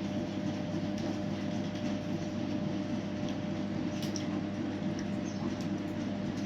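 A steady low mechanical hum, with a few faint short high squeaks about two-thirds of the way through.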